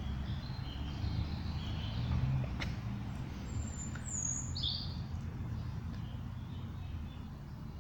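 Small birds chirping and calling intermittently in woodland, with one high falling note about four seconds in, over a steady low rumble.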